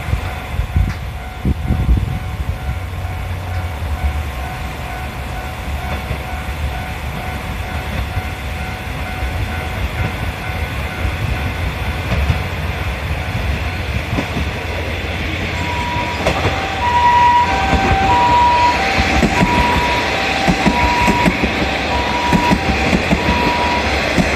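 A train running through a railway level crossing, a steady rumble with wheel clatter. About two-thirds of the way in, an ambulance's two-tone siren starts up, alternating a high and a low note about once a second, and the overall level rises.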